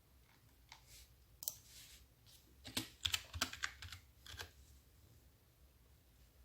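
Typing on a keyboard: a run of quick, irregular key clicks that grows denser and louder in the middle of the stretch.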